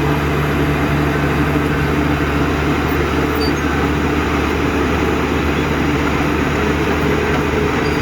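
Heavy diesel engine of construction machinery running steadily at an even pitch.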